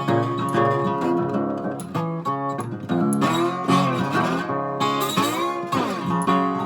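Acoustic guitar instrumental, with plucked and strummed notes ringing on; notes bend or slide in pitch twice, midway and near the end.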